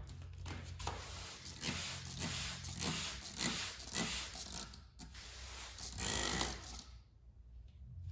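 Aerosol can of clear gloss spray being shaken, its mixing ball rattling in a run of clicks, then a short hissing spray burst about six seconds in.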